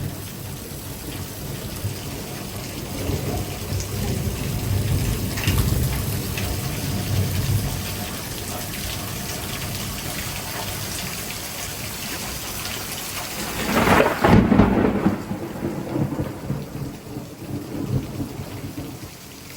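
Heavy rain pouring steadily while thunder rumbles low through the first several seconds. About fourteen seconds in, a loud, close thunderclap breaks out and rumbles away over the next few seconds.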